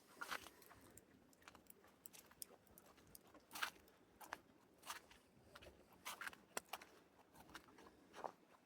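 Faint footsteps crunching in deep snow, irregular, a step every half second to second.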